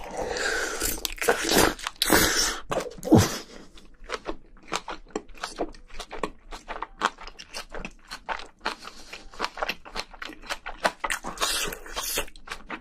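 Close-miked mouth sounds of eating spicy braised seafood (haemul-jjim) with bean sprouts and rice: a big mouthful taken in with loud wet slurping and crunching over the first few seconds, then steady chewing with quick wet smacks about three to four a second, and another short loud burst near the end.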